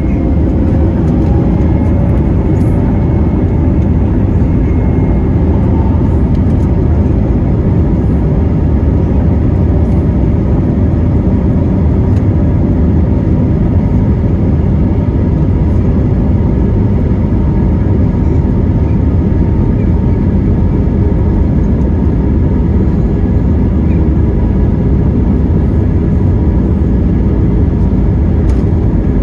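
Airbus A321neo jet engines running at takeoff thrust: a loud, steady noise with a deep rumble, and faint engine tones rising slightly in the first few seconds.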